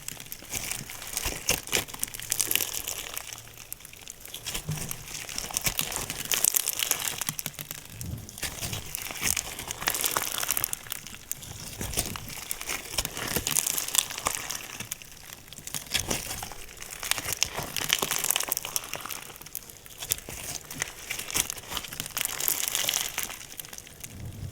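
Hands squeezing and stretching slime, making dense crackling and popping clicks. The handling comes in waves that swell and ease every two or three seconds.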